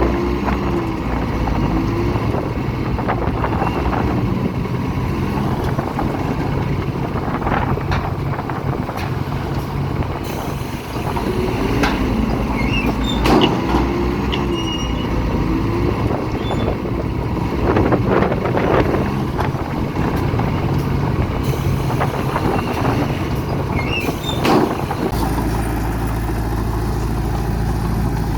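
Heavy diesel engine of a bulldozer running steadily under load, with scattered metallic clanks and short squeals from the machine as it works.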